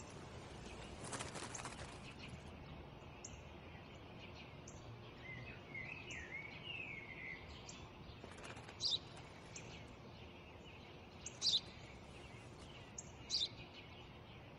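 Small birds chirping: a short warbling phrase about five seconds in, then single sharp chirps every two seconds or so in the second half, over a faint steady hiss. A brief soft rustle about a second in.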